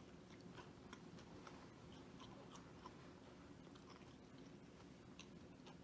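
Faint chewing: soft, irregular mouth clicks and smacks of a person eating, over low room hum.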